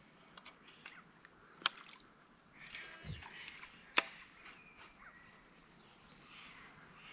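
Birds calling, with two sharp clicks, the louder about four seconds in.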